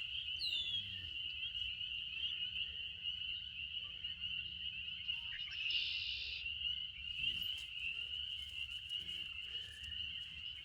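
Outdoor ambience dominated by a steady high-pitched chorus of small calling animals, with a brief falling whistle about half a second in.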